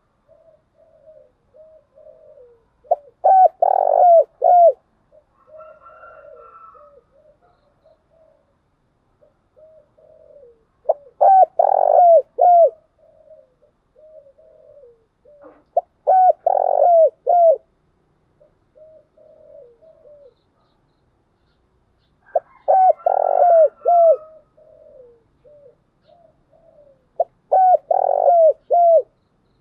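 Spotted dove cooing: five loud phrases, each a quick run of coo notes, come about every five to six seconds, with soft, low cooing in between.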